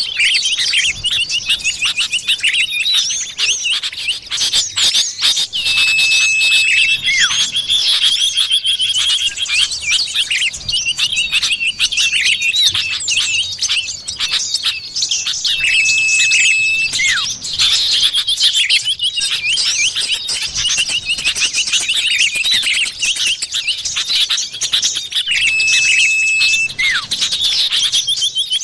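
Common iora (cipoh) bird-lure calls: dense, fast chirping and trilling, with a long level whistle about a second long repeating about every ten seconds.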